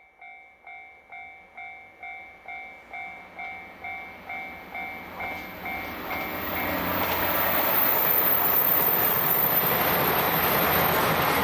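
A Japanese level-crossing warning bell dings about twice a second. From about six seconds in, a diesel train's running noise rises, drowns the bell, and stays loud as the train passes over the crossing.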